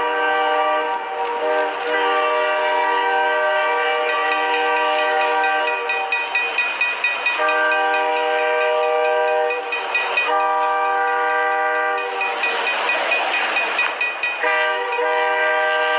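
Train's multi-chime air horn sounded almost without a break, its chord shifting several times, over the rhythmic clatter of wheels running over rail joints.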